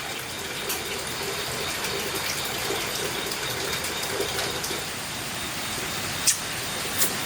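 Steady rushing water, with two sharp clicks near the end.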